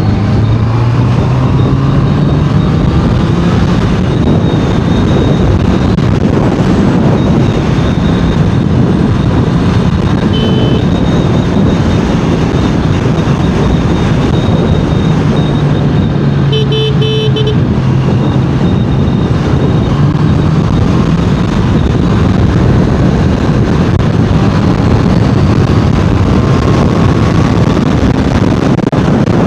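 Honda CBR650R inline-four engine running under way, its pitch climbing and dropping with throttle and gear changes, under heavy wind rush. A vehicle horn gives a short toot about a third of the way in and a longer blast of about a second a little past halfway.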